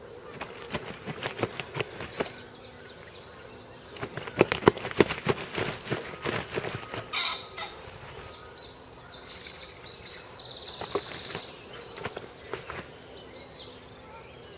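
Rustling and sharp clicks of a carp weigh sling and its straps being handled, loudest about four to seven seconds in. In the second half, songbirds sing several rapid, high trills.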